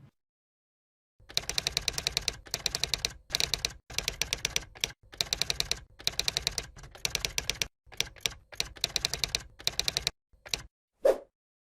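Rapid typewriter-like key clicks in bursts of about a second each, with short silent gaps between them, thinning to a few single clicks near the end. It sounds like a typing sound effect.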